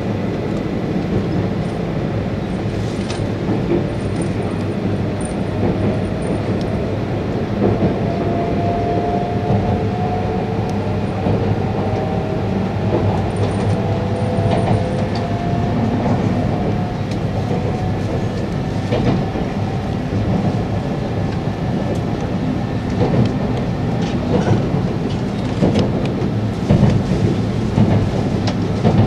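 Cabin running noise of a Tohoku Shinkansen E2-series Hayate train moving through a station: a steady rumble with a faint whining tone in the first half, and wheel clicks over rail joints and points that come more often in the second half.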